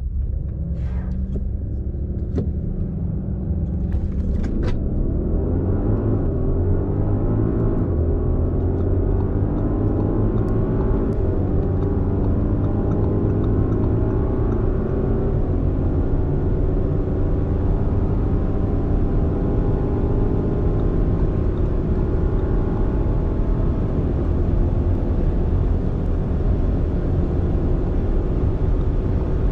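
A performance SUV's 4.0-litre twin-turbo V8 ticks over with a few clicks. About four seconds in it accelerates hard at full throttle, the engine note climbing in pitch and dropping back at each upshift of the eight-speed automatic as speed builds.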